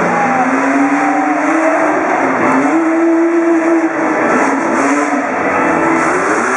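Off-road truck engine revving hard, its pitch climbing and falling several times as the throttle is worked.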